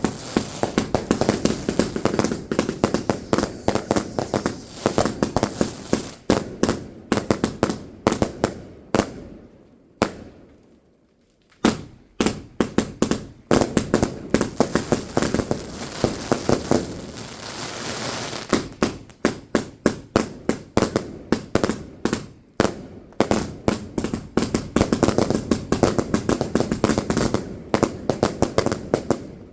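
Fireworks going off in rapid, dense volleys of bangs and crackles, with a pause of about two seconds partway through before the barrage resumes and runs on to a stop near the end.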